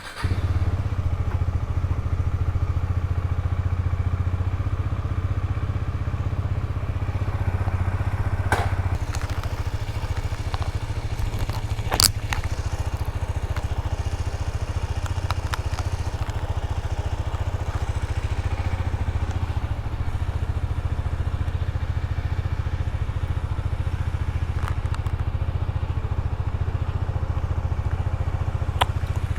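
Motorcycle engine idling steadily, with a few sharp clicks, the loudest about twelve seconds in.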